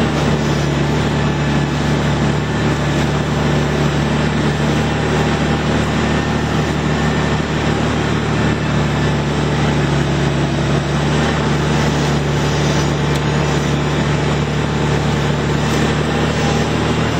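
Steiger four-wheel-drive tractor's diesel engine running at a steady speed, an unbroken drone with no change in pitch or level.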